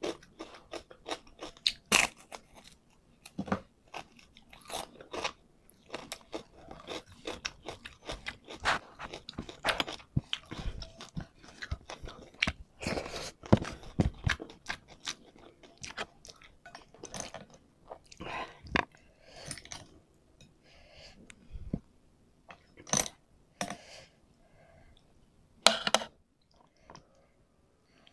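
Close-miked eating sounds: wet chewing broken by loud, irregular crunches of crisp food eaten by hand. The crunches come thickly at first, then thin out to a few sharp ones with short quiet gaps between.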